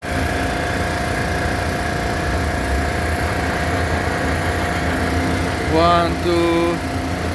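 Construction machinery engine running steadily with a low rumble and a constant hum. A short voice is heard about six seconds in.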